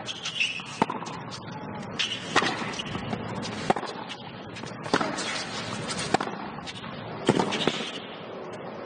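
Tennis ball struck back and forth in a rally: about seven sharp racquet hits, roughly a second and a quarter apart, over faint steady background noise.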